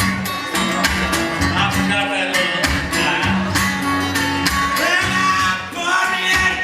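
Live country-blues band playing an instrumental stretch: acoustic guitar strummed in a steady rhythm over a walking bass line.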